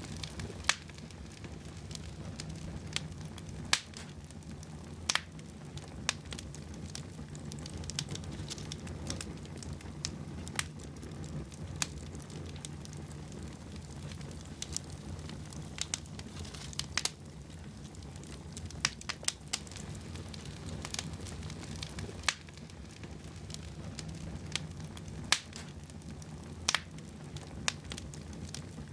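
Fire burning in a fireplace: irregular sharp crackles and pops, a few every couple of seconds, over a low steady rumble of the flames.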